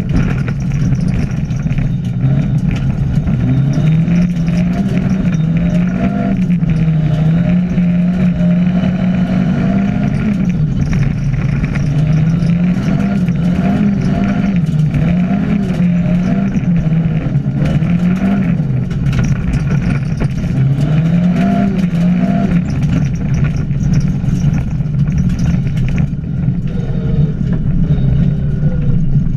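Rally-prepared Ford Escort's engine heard from inside the cabin, driven hard on a stage, its pitch repeatedly climbing and dropping with acceleration, gear changes and lifting off. Loose gravel clatters against the car throughout.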